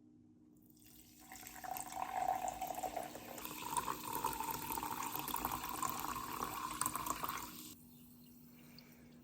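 Water running from a tap into a sink for about six seconds, its tone shifting a little higher about halfway through, then shut off abruptly near the end.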